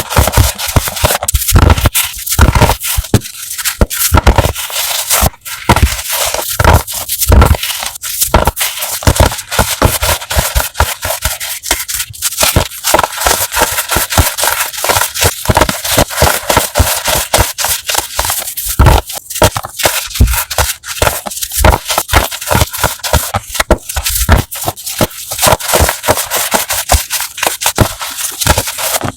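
Crunchy chalk being crushed: a loud, dense run of crackles and snaps as the pieces crumble.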